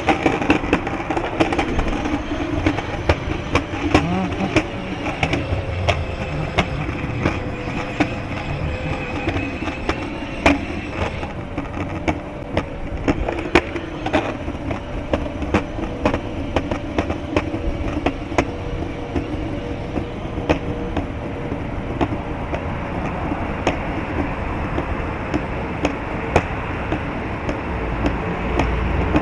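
Small hard wheels rolling over rough pavement, with frequent sharp clicks and knocks from bumps and joints, a faint steady whine, and low wind rumble on the microphone.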